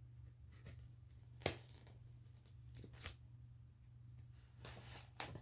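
A package being handled for unboxing: a few sharp clicks and knocks, about one and a half seconds in, three seconds in and near the end, with a short rustle of packaging, all quiet over a low steady hum.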